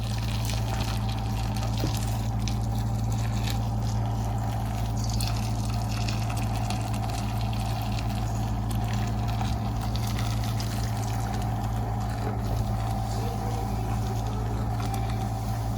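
Water running steadily over a constant low mechanical hum, with scattered light clicks and knocks.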